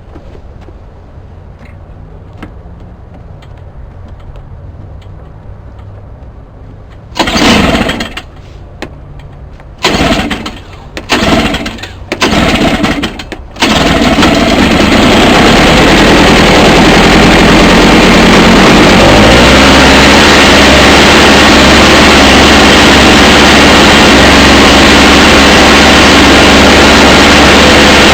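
Toro Powerlite 98cc two-stroke snowblower engine being cold-started: after a quiet pause it is cranked in four short bursts that sputter and die, catches on the fourth about halfway through, and then runs loudly and steadily.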